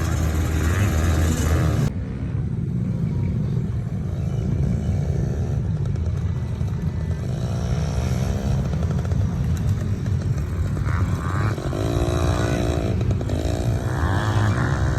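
Small dirt bike engine running over a steady low rumble, its pitch rising and falling several times as it is throttled up and eased off. The sound changes abruptly about two seconds in.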